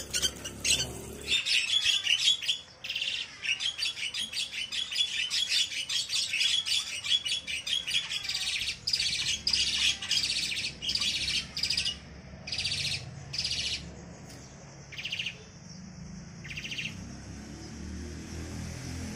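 A pet bird calling in long runs of rapid, high chattering notes. In the second half these thin out to a few short separate calls.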